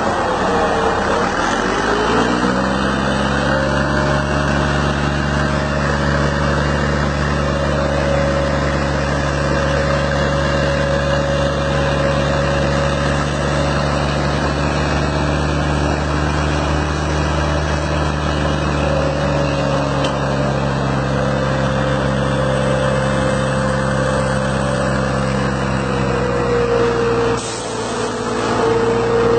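Heavy truck engine running: its pitch drops over the first couple of seconds, then it holds a steady speed. About 27 seconds in there is a short break with a sharp click and a dip in level before it runs on.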